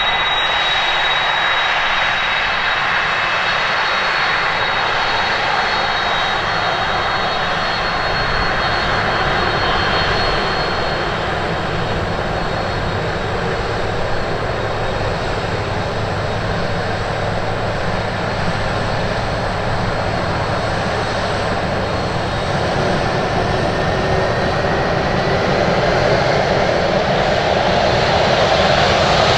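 Boeing 767-300ER's twin GE CF6-80C2 turbofans running at takeoff power: a steady jet roar with thin high whines over it. One whine rises in pitch near the end as the sound grows slightly louder.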